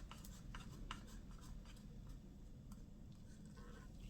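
Faint scraping and a few light clicks of a plastic paint cup and stir stick as the last of the magenta acrylic paint is emptied into the pour cup, over a low room hum.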